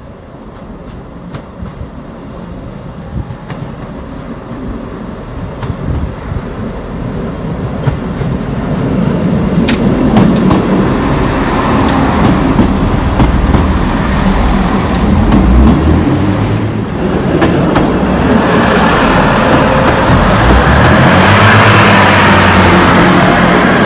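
Class 158 diesel multiple unit approaching and passing close beneath, its underfloor diesel engines and wheels on the rails growing steadily louder, with a few sharp clicks along the way. After a cut, another Class 158 runs in loud, its engine note steady, with a high rising whine near the end.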